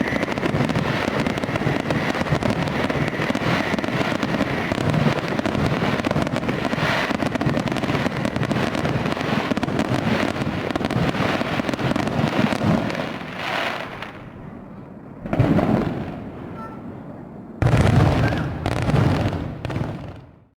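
Fireworks exploding and crackling in a dense, continuous barrage, dying down about two-thirds of the way in to a quieter stretch broken by a few single bursts, then picking up again before fading out.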